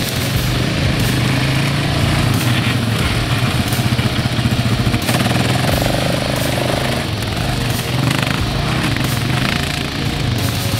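Yamaha Raptor 700R quad bike's single-cylinder four-stroke engine running while being ridden, fairly steady with small rises and falls in pitch.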